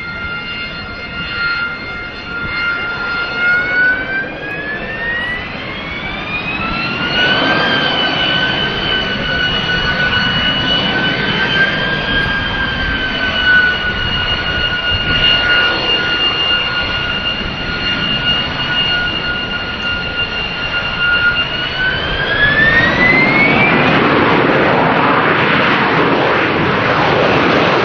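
AV-8B Harrier II's Rolls-Royce Pegasus turbofan running with a strong high whine. The whine climbs in pitch twice as the engine spools up, a few seconds in and again near the end, when the jet roar grows louder.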